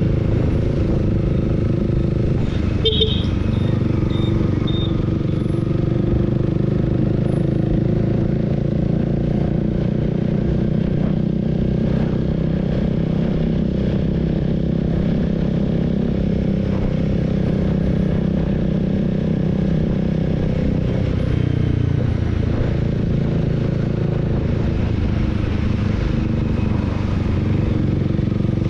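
Honda Rebel 300's single-cylinder engine running steadily under way, heard from the rider's seat, its note dropping about twenty-one seconds in. A brief high beep sounds about three seconds in.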